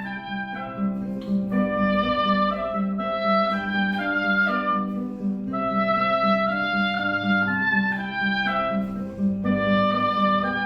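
Music from an instrumental ensemble playing sustained reedy chords under a moving melody line, the sound of bayan (button accordion) accompaniment.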